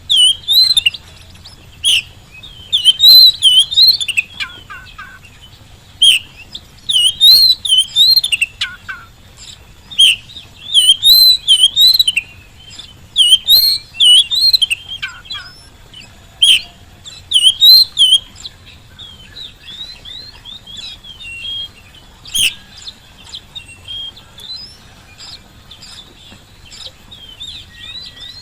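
Oriental magpie-robin singing loud, repeated whistled phrases of rising and falling notes every second or two. After about two-thirds of the way through, the song turns softer, into quick, twittering chirps.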